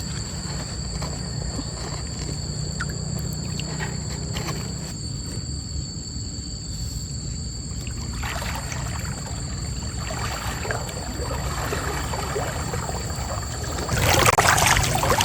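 Stream water running with a low, steady rush. Splashing in the water starts about halfway through and is loudest near the end. Two steady high tones sit above it throughout.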